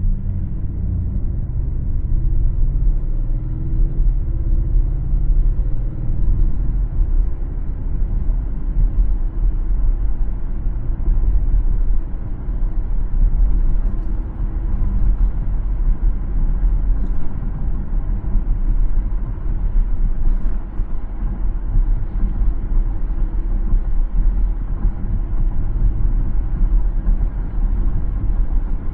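Car driving along a road: a steady low rumble of road and engine noise, with the engine note shifting in pitch over the first few seconds.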